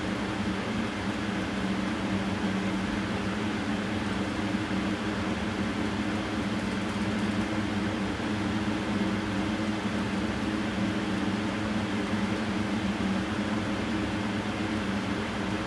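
Steady mechanical hum with an even hiss and a constant low drone, unchanging throughout.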